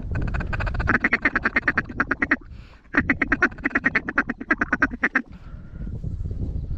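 Rapid, rhythmic duck quacking in two long runs with a short pause between, fading out in the last second or so, over low wind rumble on the microphone.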